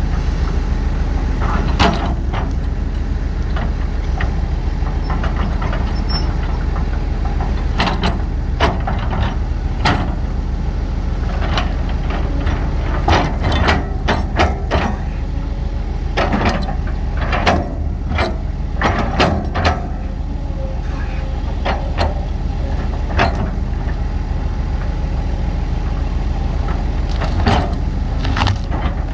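Heavy diesel machinery engine running steadily, with repeated sharp metallic clanks and knocks.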